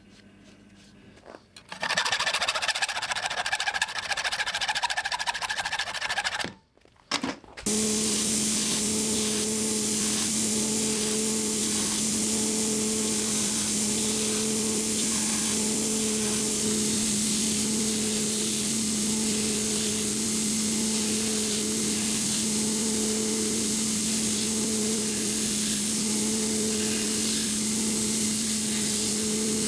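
A small motor-driven tool running steadily with a low hum and a hiss, after a shorter burst of a different high-pitched noise that stops about six seconds in.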